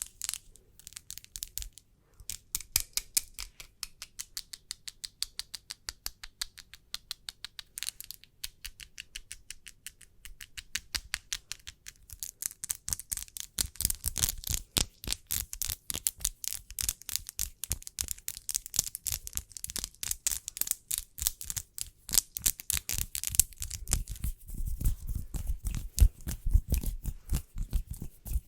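Close-miked fingernails tapping in quick, crisp clicks, several a second. The tapping grows faster and denser about halfway through, and heavier, deeper taps join near the end.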